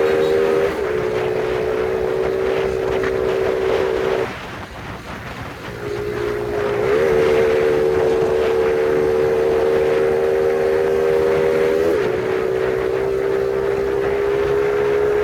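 A Phoenix 50cc moped's small engine running hard under way. Its steady note drops with a gear change about a second in and again near the end. About four seconds in the throttle closes and the engine note falls away for a second or two, then the engine pulls back up to speed.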